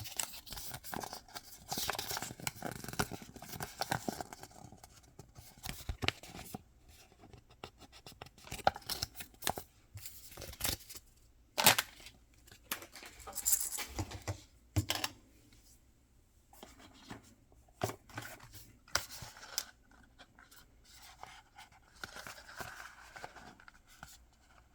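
Mystery-box packaging being torn open and handled: irregular tearing and crinkling with crisp clicks and snaps, the loudest a single sharp snap a little before halfway.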